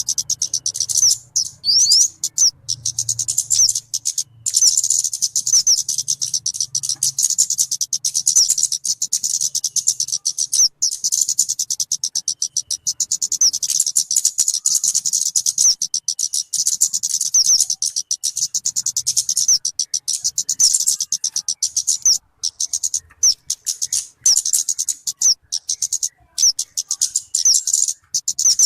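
Talokan (kemade) bird singing a long run of rapid, high chirps and trills, broken only by short pauses every few seconds.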